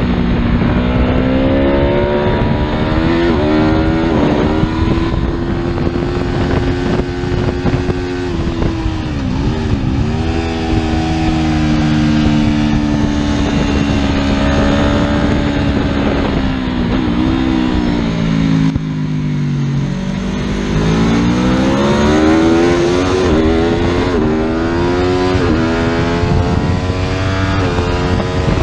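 Superbike engine running hard under throttle. Its pitch climbs and steps down through repeated gear shifts, falls away sharply a little past the middle as the throttle closes, then climbs again through several quick upshifts.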